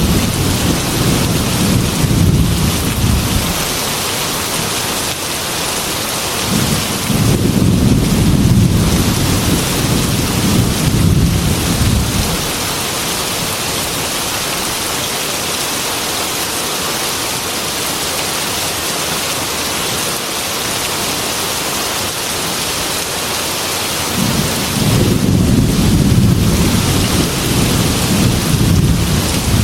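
Heavy rain falling steadily on a glass window, with low rolls of thunder rumbling three times: at the start, again from about seven seconds in for several seconds, and once more near the end.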